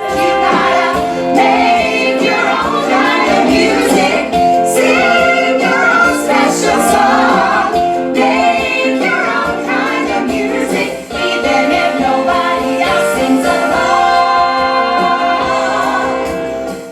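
A group of women singing a 1960s-style pop song with band accompaniment, several voices together.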